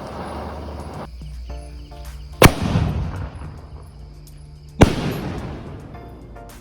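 Two loud firecracker bangs, about two and a half seconds apart, each with a ringing tail that fades, over music playing in the background. A steady rushing noise fills the first second.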